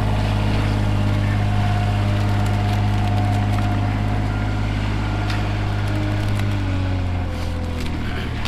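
A heavy engine running steadily with a deep hum, its note dropping slightly about two-thirds of the way through.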